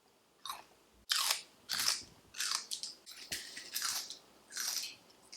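Someone chewing crunchy food, with loud crunches about seven times, roughly one every two thirds of a second.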